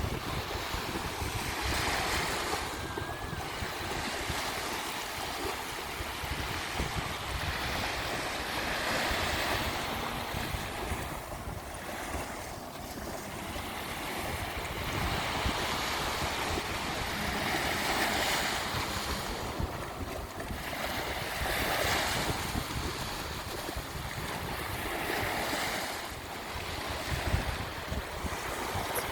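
Sea waves breaking and washing up a beach, the surf swelling and easing every few seconds, with wind rumbling on the microphone.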